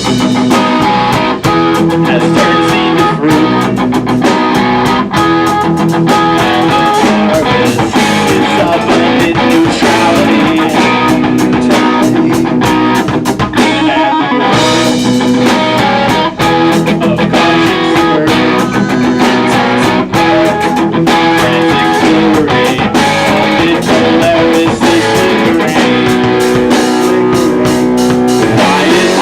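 Rock band playing live, with loud guitars held over steady drumming.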